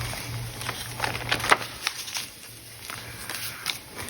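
Paper pages of a handmade junk journal being turned and handled: irregular rustling and crinkling, with small sharp ticks of paper and card.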